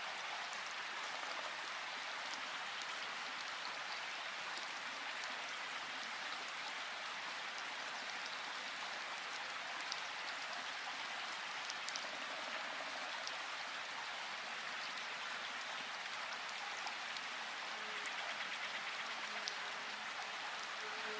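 Steady rush of a river or waterfall, with occasional small splashes ticking over it.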